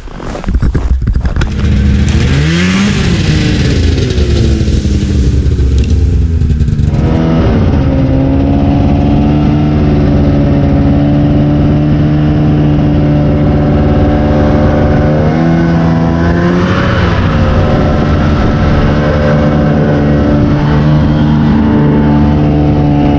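Snowmobile engine towing a sleigh: it revs up with a rising pitch about two seconds in, then runs steadily at speed, with a brief rise and fall in pitch around the middle.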